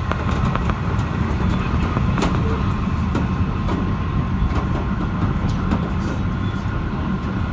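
Ride noise inside an H-set passenger carriage running along the track: a steady low rumble of wheels on rails with scattered small clicks and rattles, under a faint steady hum.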